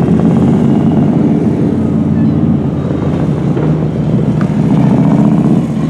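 Harley-Davidson Electra Glide Classic's V-twin engine running loud through Vance & Hines headers and CFR mufflers, with a stage 4 kit and cam and head work. Its sound swells, eases a little midway, swells again and drops off near the end.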